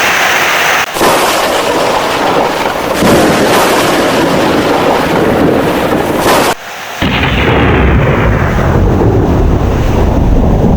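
Heavy rain with loud thunder: a sustained crashing roar of thunder over the rain, then after a brief dip about two-thirds of the way through, a deep low rumble of thunder rolls on under the rain.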